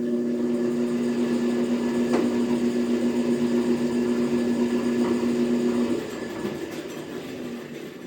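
Metal planer's electric drive motor running with a steady hum, then switched off about six seconds in and winding down as it coasts to a stop.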